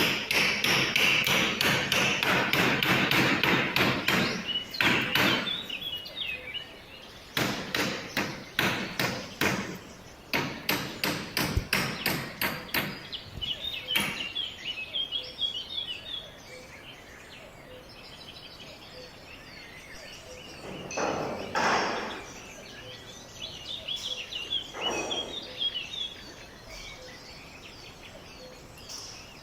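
A run of quick, regular hammer blows, several a second, breaking off about six seconds in and starting again until about fourteen seconds. Birds chirp after that, with two short rushing noises in the second half.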